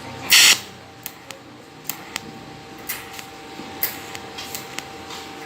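Welding repair on a stainless steel water tank: a short, loud hissing burst about half a second in, then scattered sharp clicks and crackles as filler is built up over the hole.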